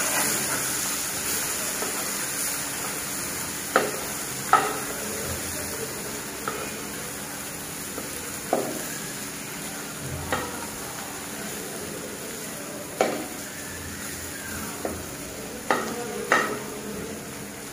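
Prawns sizzling as they shallow-fry in hot oil in a karahi. A metal spatula turning them clinks and scrapes against the pan several times.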